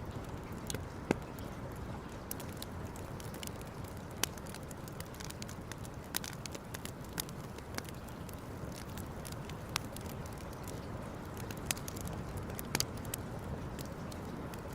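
Wood campfire burning, with sharp crackles and pops at irregular intervals over a steady low rush. The loudest pop comes about a second in.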